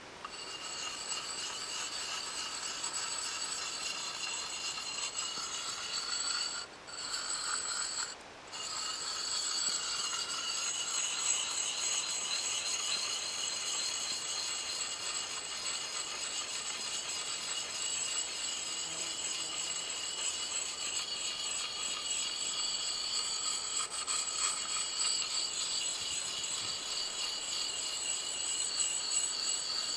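Steel blade being sharpened on a sharpening stone: continuous rapid scraping strokes, with two short breaks about seven and eight seconds in.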